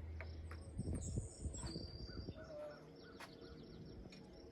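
Faint outdoor ambience: a bird calling over a background of insects.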